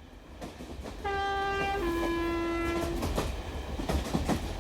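Train running on rails with a low rumble and clicking wheels, growing louder. About a second in, its horn sounds two notes, the second lower and longer.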